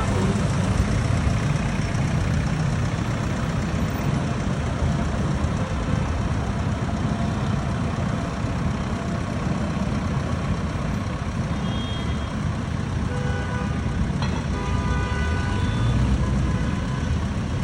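City street traffic: vehicles running and passing in a steady noise of engines and tyres. A few short beeping tones sound near the end.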